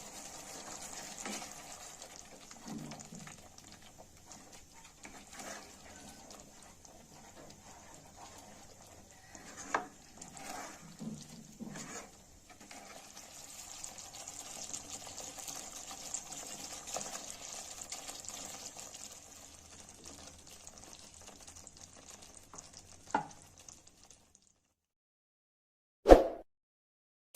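Food sizzling in a pan, a steady hiss with occasional clinks and scrapes of a spoon stirring. It stops suddenly about 24 seconds in, and a single sharp knock follows about two seconds later.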